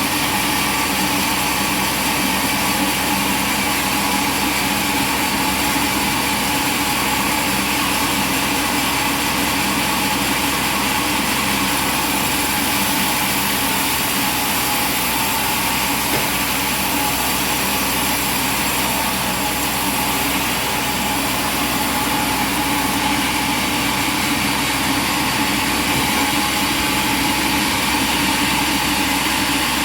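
Sawmill machinery running steadily at constant speed, an unchanging motor drone with several steady tones over a bright hiss.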